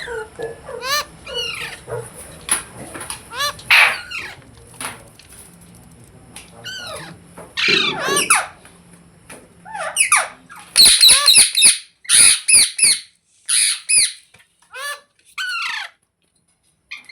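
Rose-ringed (ringneck) parakeet calling: scattered squeaky chirps and whistles, then a run of loud, shrill, rapidly repeated screeches about ten to fourteen seconds in, breaking off shortly before the end.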